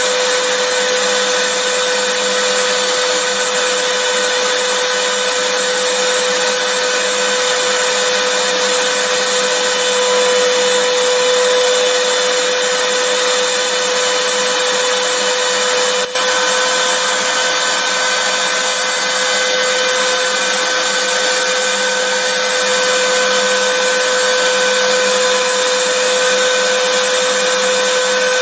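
Vacuum cleaner running steadily, a dense rushing noise with a constant whine, with one momentary break a little past halfway.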